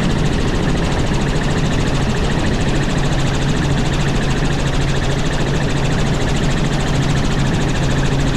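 Helicopter engine and rotor running steadily: a constant drone with an unchanging low hum.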